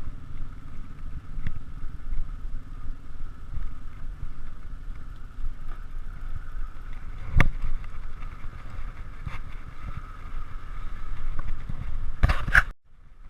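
Riding noise from a bicycle: steady wind buffeting and road rumble, a sharp knock about seven seconds in, and a clattering rattle near the end before the sound briefly drops out.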